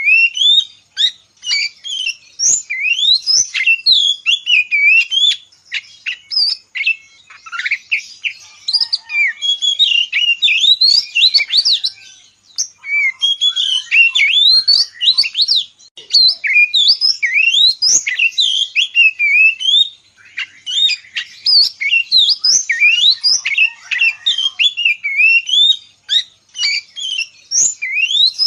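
Oriental magpie-robin (kacer) in full song: a fast, varied run of clear whistled notes and quick up-and-down sweeps. It pauses briefly a few times.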